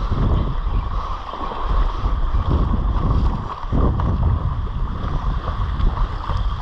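Wind gusting on the microphone, a heavy uneven rumble, over the steady wash of surf.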